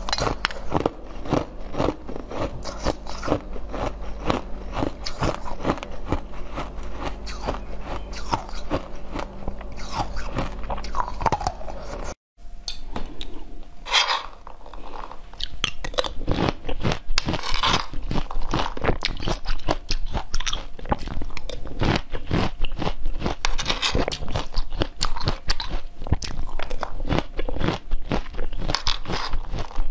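Close-miked crunching, biting and chewing of jelly cubes, dense with rapid crackling clicks. After a brief silent break about twelve seconds in, it changes to crunching and chewing of mouthfuls of pomegranate seeds.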